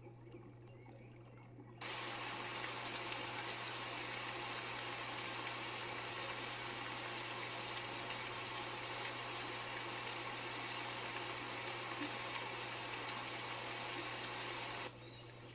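Heavy rain: a steady hiss of water that starts abruptly about two seconds in and cuts off abruptly near the end.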